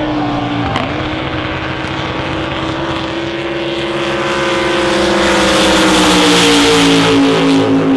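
Racing drag boat engines at full throttle during a pass: a steady high engine note that builds louder and drops in pitch as the boats go by, about three quarters of the way through.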